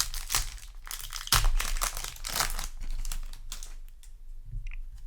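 Yu-Gi-Oh! booster pack's foil wrapper crinkling as it is opened and handled, a dense crackle that is loudest in the middle and dies down to a few faint clicks near the end.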